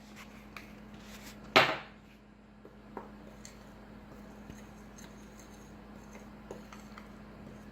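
A utensil mixing cayenne into dry flour in a bowl: quiet scraping with a few light clicks, and one louder clink about a second and a half in. A steady low hum runs underneath.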